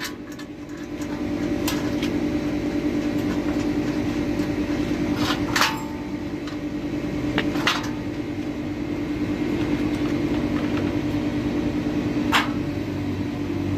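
A steady machine hum, with a few sharp metallic clinks and knocks scattered through it.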